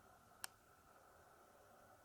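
Near silence: faint room tone, broken by a single short sharp click about half a second in.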